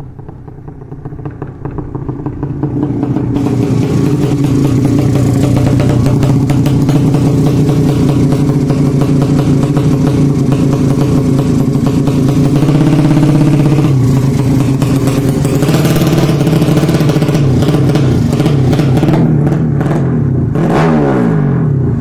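Motorcycle engine running, a 200cc horizontal-cylinder ('sleep engine') drag-bike build. It climbs in revs over the first few seconds, then holds high revs, with a quick rev change near the end.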